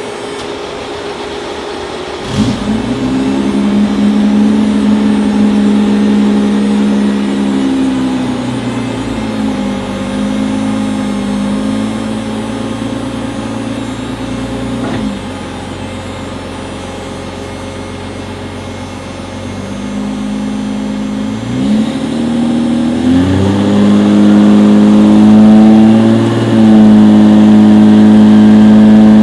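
Turbocharged BMW M3 drag car's engine running on a chassis dyno: it comes in suddenly about two seconds in and holds a steady speed, drops back about halfway, then revs up again and runs loud and steady near the end.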